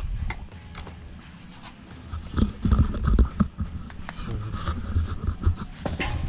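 A dog panting close to the microphone in uneven bursts, with scattered light clicks.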